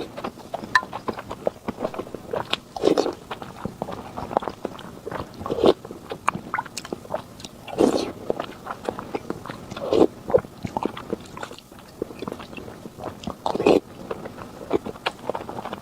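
Close-miked eating: a person chewing and biting food, with louder bites every couple of seconds among small clicking mouth sounds.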